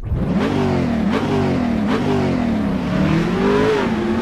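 Car engine accelerating hard, its pitch climbing and dropping back at each gear change, about three times.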